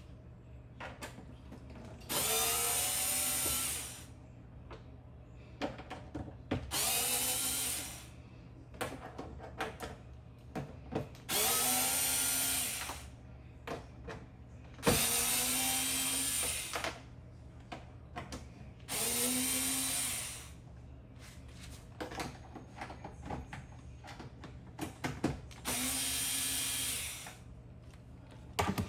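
Power drill-driver backing out six T20 Torx screws, one after another: six separate bursts of motor whine of about one and a half to two seconds each, with small clicks and rattles of screws and bit in between.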